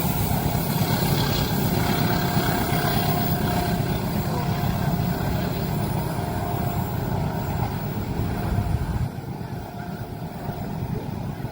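Passing train: a steady, loud rumble that drops off suddenly about nine seconds in.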